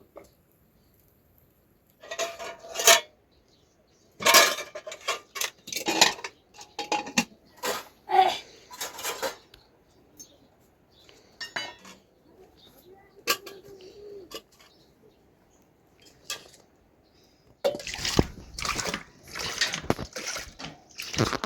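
Metal pots, dishes and utensils clattering and knocking at irregular intervals, some strikes ringing briefly, with a denser run of clatter near the end.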